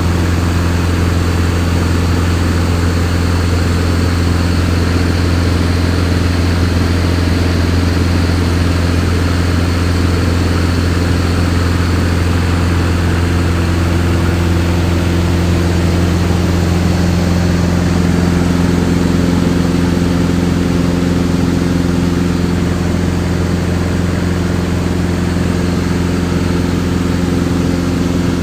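Steady hum of a machine running at a constant speed: one low, even pitch with its overtones, its tone shifting slightly about 18 seconds in.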